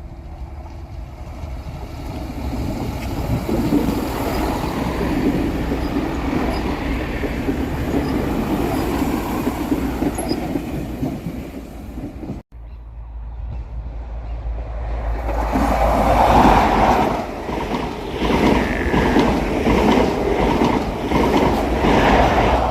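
Trains passing at speed, with a hard cut about halfway between two passes. The first builds to a steady rumble; the second is louder, with regular wheel clatter over the rail joints.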